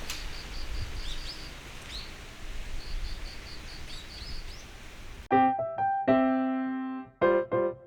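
A bird calls in runs of short high notes, about five a second, with a few falling chirps, over a steady outdoor hiss. About five seconds in, this cuts off suddenly and louder solo piano music begins.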